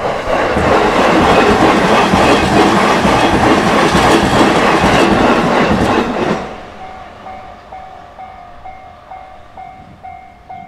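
A train passes over a level crossing for about six seconds, its wheels clattering over the rail joints, and the noise drops away quickly. Under and after it the crossing's warning bell rings in an even repeating pattern of about two strikes a second.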